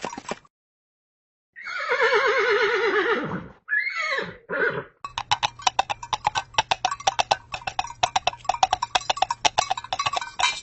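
Horse whinnying: one long, wavering neigh, then two short calls. Fast, even hoofbeats follow, clip-clopping until the end.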